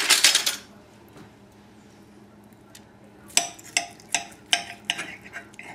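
Knife cutting through a cooked chicken cutlet on a plate: a short scrape, then a quick run of about seven light clinks of metal on the plate.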